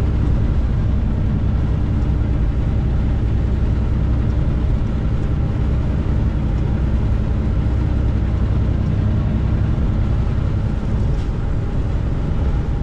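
Inside a loaded semi-truck cab at highway speed: the diesel engine drones steadily under constant road and tyre noise.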